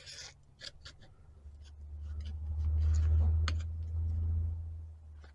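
Light scratching and scraping from a tool cleaning out a seal groove in a hydraulic cylinder part. A low rumble swells up about two seconds in and is the loudest sound for the next few seconds, then fades near the end.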